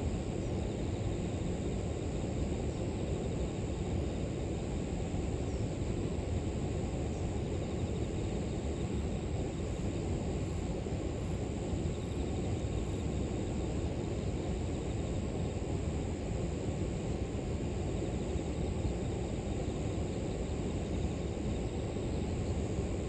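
Steady rushing of river water, with a continuous high-pitched drone of crickets or other insects over it.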